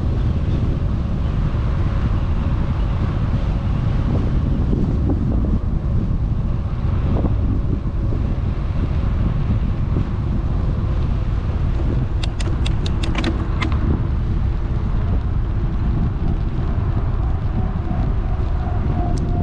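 Wind buffeting a GoPro Hero 8's microphone on a moving electric bike, a steady loud rumble. A quick run of about seven sharp clicks comes a little past halfway, and faint steady tones come in near the end.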